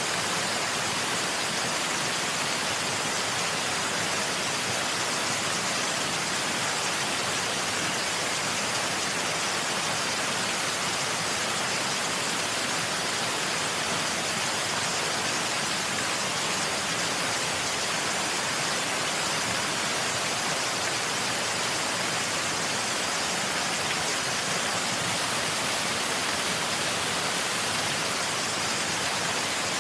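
Waterfall's falling water making a steady, even rush, more hiss than rumble, with no change in level.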